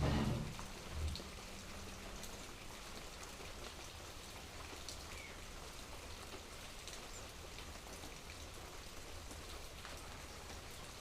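Rain falling steadily, drops ticking on a surface. A low thump sounds right at the start and a smaller one about a second in.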